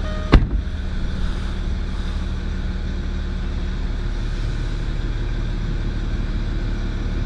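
Jaguar XF's 2.7-litre turbo diesel V6 idling steadily, heard from inside the cabin, with one sharp click about a third of a second in.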